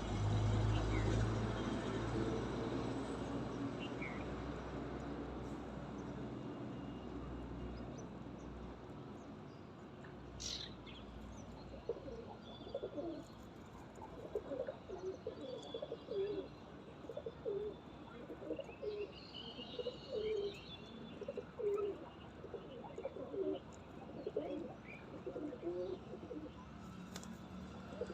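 Pigeons cooing, a low call repeated about once a second, with a few higher chirps from small birds mixed in. A low rumble fades away over the first few seconds before the cooing starts.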